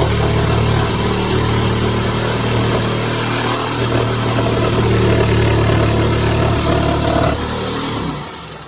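Reciprocating saw (Sawzall) running steadily as it cuts through wood framing; near the end the trigger is released and the motor's high whine falls in pitch as it spins down.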